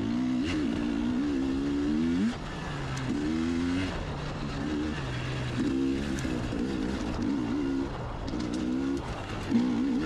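Two-stroke dirt bike engine, a KTM 300 XCW TPI fitted with an FMF Turbinecore 2.1 silencer, revving up and down over and over as it is ridden up a rough trail, with the revs dropping sharply about two seconds in.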